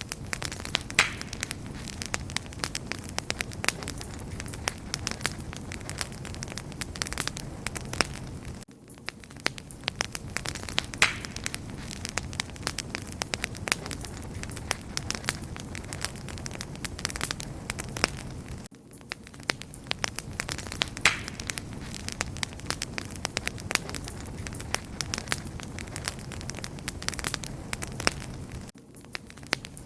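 Wood fire crackling and popping, with many sharp snaps over a steady low rumble of flames. The sound briefly dips about every ten seconds.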